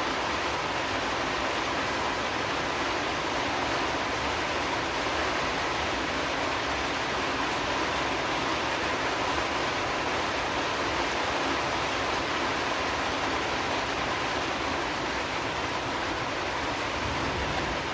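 Steady rain falling, an even unbroken hiss with no let-up.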